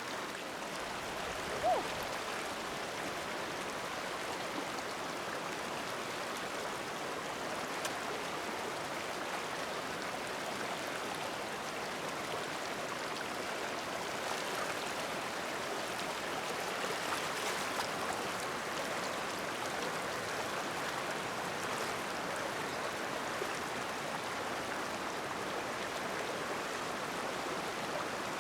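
Steady rush of a flowing stream, with one brief sharp sound about two seconds in.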